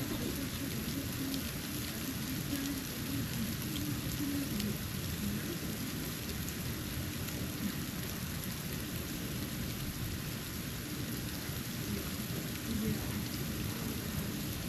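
Snow falling on a porch: a steady soft hiss with scattered light ticks, over a continuous low rumble.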